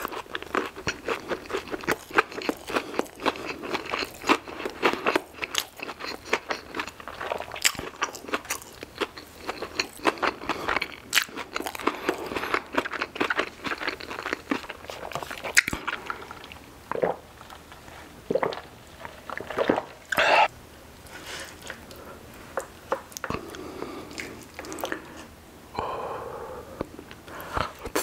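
Close-miked chewing of crunchy fried food: a dense run of crisp crunches that thins out past the middle into slower, sparser chewing.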